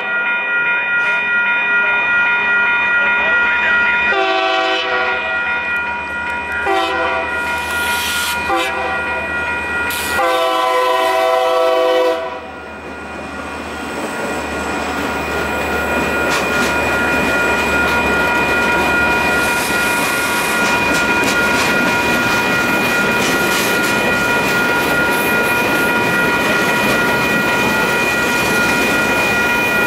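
Grade-crossing bells ringing steadily while the Union Pacific EMD GP40-2 locomotive sounds a series of horn blasts, the last a long one ending about 12 seconds in. The locomotive's diesel engine rumbles as it crosses, then freight cars roll through with a steady rumble and wheel clatter.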